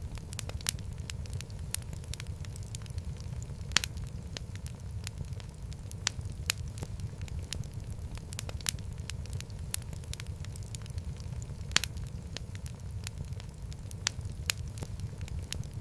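Wood fire crackling in a fireplace: frequent sharp pops and snaps over a steady low rumble of the flames, with two louder pops.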